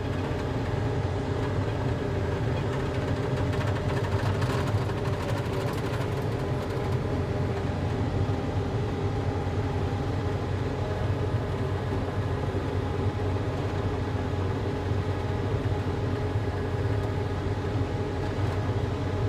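Volvo skid steer's diesel engine running steadily as the machine drives, with a brief rattle about four seconds in.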